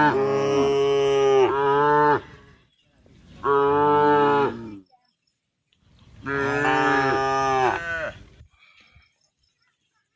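Cow mooing: three long calls a couple of seconds apart, each holding its pitch and dipping at the end, a cow calling to the herd.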